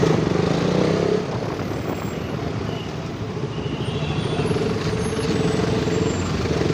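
Motorcycle engine running steadily while riding, with road and wind noise, in surrounding traffic.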